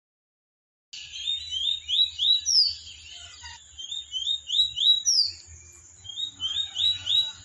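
A caged competition songbird singing in a bird race: quick runs of rising, chirping notes, in three bursts separated by short pauses, starting about a second in.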